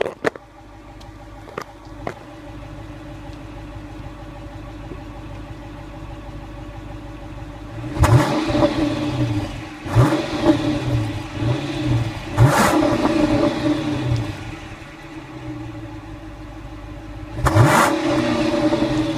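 Chrysler 300's Hemi V8 exhaust idling steadily, then revved in short blips about eight, ten and twelve seconds in, dropping back to idle before one more rev near the end. A few sharp clicks come near the start.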